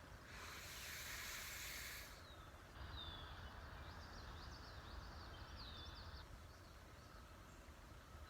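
A breath drawn in for about two seconds, then faint birdsong: several short, curved chirps between about three and six seconds in, over a low background rumble.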